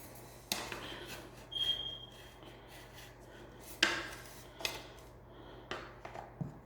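Ceiling fan parts being handled and fitted together: a handful of light clicks and knocks, with a short scrape and a brief thin squeak about a second and a half in.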